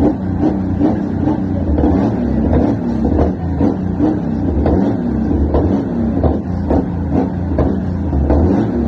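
A truck engine running, with a deep low rumble.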